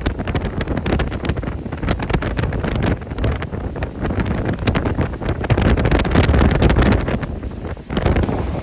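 Hurricane-force wind buffeting the microphone: a loud, gusting roar with crackling spikes, rising and falling in strength, with a brief drop near the end.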